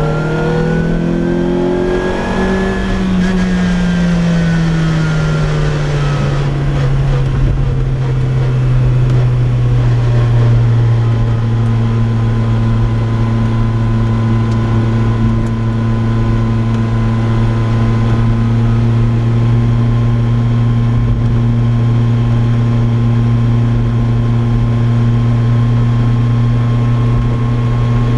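2004 Lotus Exige Cup's naturally aspirated four-cylinder engine and loud exhaust: the revs climb for about three seconds, fall away over the next several seconds, then hold a steady drone at constant revs for the rest of the time.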